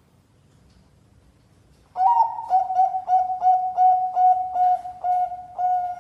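Zebra dove (perkutut, Bangkok type) cooing: a quick run of short ringing notes, about four a second, starting about two seconds in after a near-silent pause.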